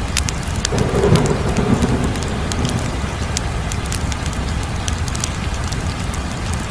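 Wood fire burning with a steady low rumble and scattered sharp crackles and pops, swelling louder about a second in.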